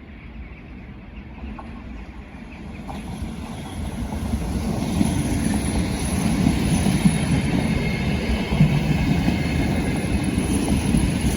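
A train approaching and passing on the rails. The rumble of wheels on track grows louder over the first five seconds or so, then stays loud, with a thin high whine or squeal running over it.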